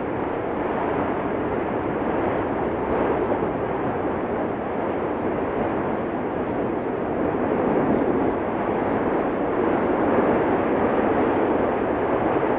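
Continuous noise from the erupting Cumbre Vieja volcano's fissure vent, a steady dense rush that swells slightly about two-thirds of the way through.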